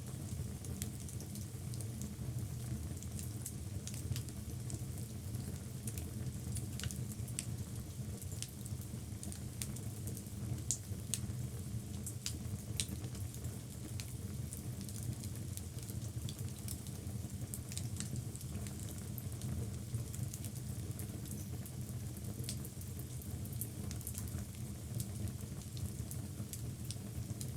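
Wood logs burning in a fireplace: a steady low rumble of flame under frequent small, sharp crackles and pops.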